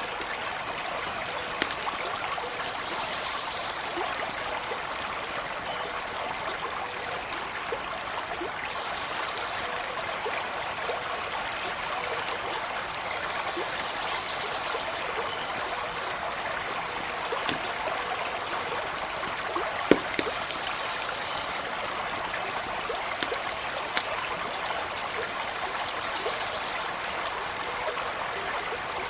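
Small brook flowing steadily, with a dozen or so sharp crackles and pops from a campfire scattered through it.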